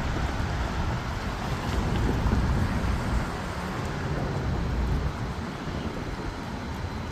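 A train passing with a steady low rumble that swells a couple of seconds in, under wind noise on the microphone.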